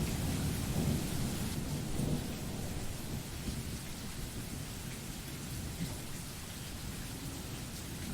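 Thunderstorm: steady rain hiss with a low rumble of thunder that fades away over the first couple of seconds.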